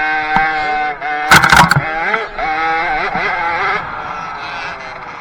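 High-revving 50cc two-stroke motocross bike engine, its pitch dipping and climbing as the throttle is rolled off and opened. A loud burst of knocks about a second and a half in, and the engine note fades away near the end.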